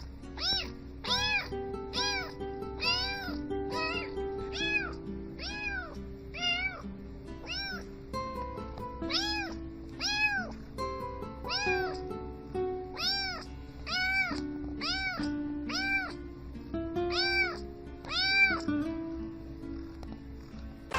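Cat meows repeated in a steady rhythm, about one a second at shifting pitches, set over sustained backing notes: a tune built from meows.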